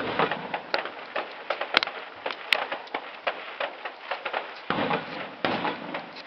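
Fireworks display: a rapid, dense run of sharp cracks and pops, with deeper booms about five seconds in.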